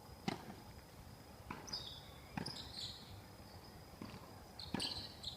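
Tennis ball being hit and bouncing during a rally: four sharp pops at uneven spacing, with short high squeaks in between.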